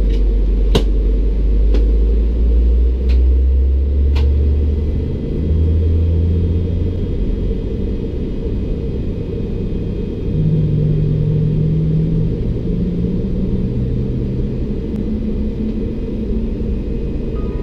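Low rumble and hum inside the cabin of a Bombardier CS300 airliner on the ground before takeoff. The hum steps up in pitch a few seconds in and again about ten seconds in, with a few faint clicks in the first seconds.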